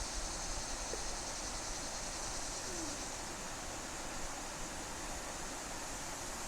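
Steady hiss of river water flowing around a kayak, with a faint short falling note about three seconds in.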